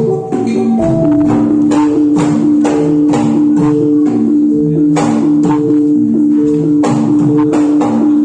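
Javanese jathilan music: percussion strokes in a quick, steady beat over short repeating pitched notes, with a long held low tone from about a second in.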